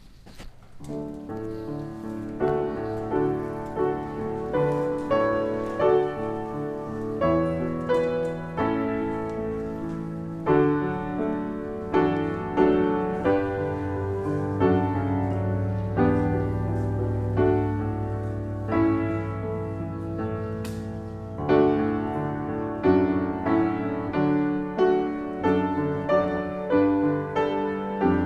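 Piano playing a slow, gentle instrumental piece, struck chords and notes sounding every second or so.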